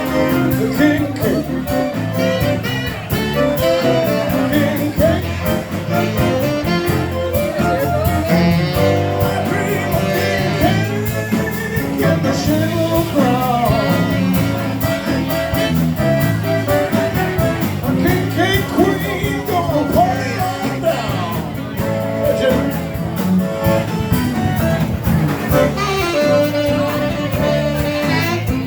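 Zydeco band playing an upbeat number, with a singer over a steady beat.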